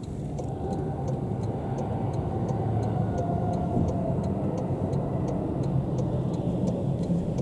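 Steady low rumble of a car driving, heard from inside the cabin. A light, even ticking runs through it about three times a second.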